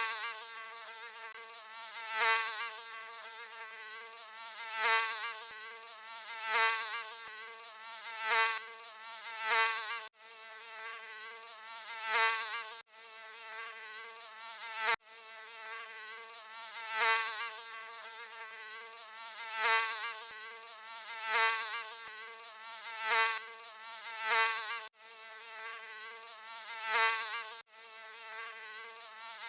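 Mosquito wings buzzing: a steady high whine that swells louder and fades again about every one and a half to two seconds, as if the insect passes close by, with a few abrupt breaks in the sound.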